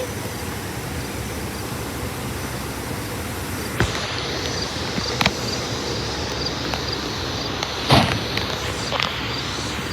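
Steady running noise of a commuter train, with a few sharp knocks, the loudest about eight seconds in.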